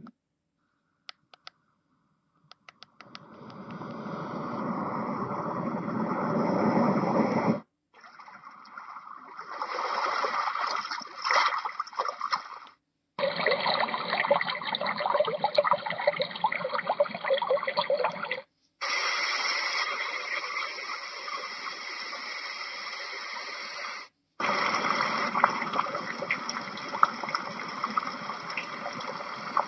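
Yogasleep Duet white noise machine playing its built-in sounds one after another: five steady, water-like noise sounds of several seconds each. Each cuts off abruptly before the next begins, and a few faint clicks come just before the first.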